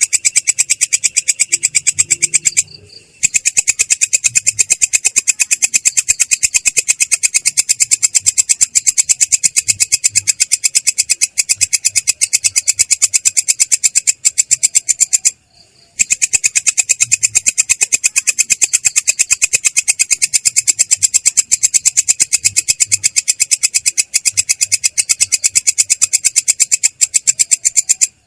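Belalang kecek katydid calling in a continuous rolling trill of fast, even pulses, a clear but rough high-pitched chirring. It breaks off briefly twice, about three seconds in and about halfway through.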